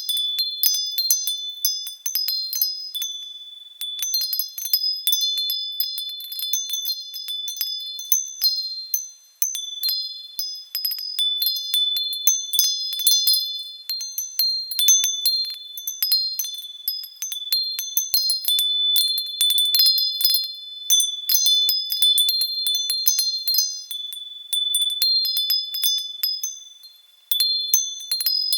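Metal wind chimes set ringing by the wind, tinkling irregularly as several high tones strike and ring over one another, with brief lulls.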